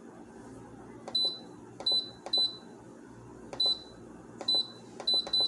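Instant Pot control panel beeping as its buttons are pressed to change the pressure-cook time: about eight short, high beeps, each with a button click, coming faster near the end.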